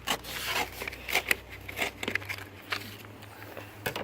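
Sticker transfer tape and backing paper crackling and rustling as they are handled, lifted and peeled, a string of irregular sharp crackles.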